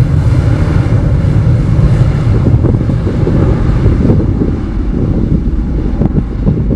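Jet engines of a Boeing 747-400F, a loud low rumble with wind buffeting the microphone. The higher hiss fades about four seconds in.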